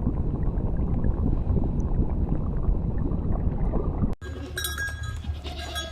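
A rough, low rumbling noise for about four seconds, then an abrupt cut to livestock bells ringing repeatedly in clear metallic tones over a low hum.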